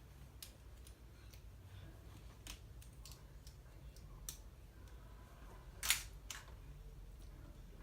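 Plastic LEGO bricks being handled and pressed together: a scatter of small sharp clicks, the loudest about six seconds in, over a low steady hum.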